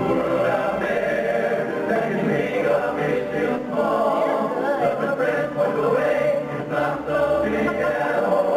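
Choral music: several voices singing together.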